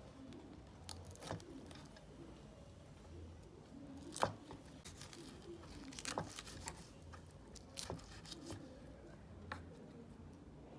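Scattered sharp clicks and knocks with soft rustling, as of ingredients being handled and cut for cooking. Behind them, a soft low cooing repeats about every two seconds, like a dove.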